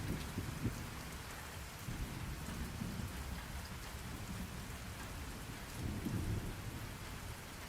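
Steady rain falling, with low rolling rumbles of thunder that swell up about six seconds in.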